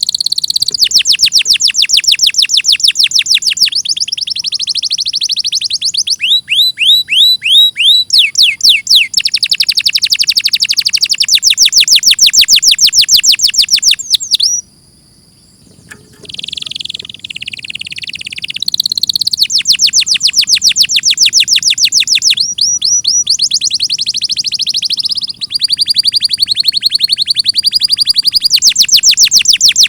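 Domestic canary singing a long, loud song of fast trills of rapidly repeated sweeping notes mixed with held high whistles, with a short break about halfway through.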